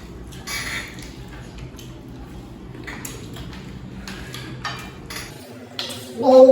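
Scattered clinks and scrapes of cutlery and plates while people eat, with a voice starting near the end.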